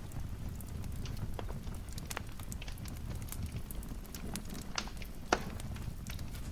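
Wood fire in a fireplace crackling: irregular sharp pops and snaps over a low steady rumble, with one louder pop about five seconds in.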